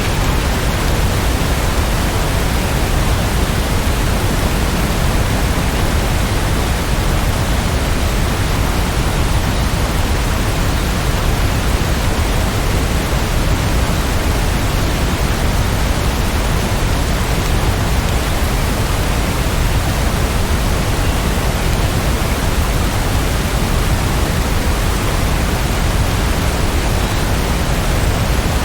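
Steady rainfall: an even, unbroken hiss that is heaviest at the low end, with no distinct drops or breaks.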